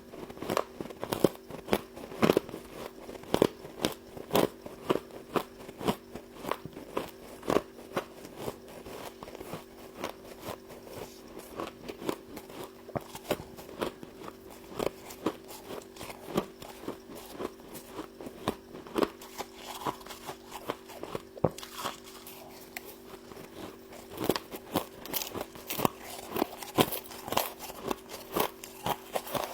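Frost from a humidifier being bitten and crunched, sharp crunches coming about twice a second, with a steady low hum underneath.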